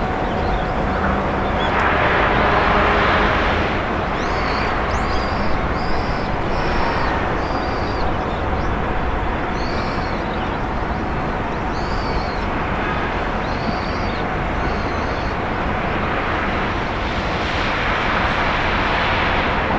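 Distant freight train running, heard as a steady low rumble from afar, with a bird chirping over it again and again through the middle. Two swells of rushing noise come about two seconds in and near the end.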